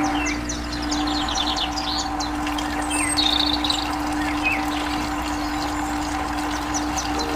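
Small birds chirping and twittering in short, fast trills, over a steady droning tone and low hum.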